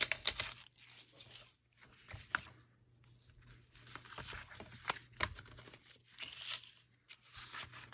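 Sheets of paper being handled: short rustles and light taps and clicks at irregular moments as folded pages are shuffled and fitted together.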